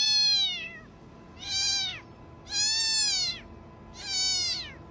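A cat meowing four times in a row, each meow a drawn-out call that rises then falls in pitch, about a second apart.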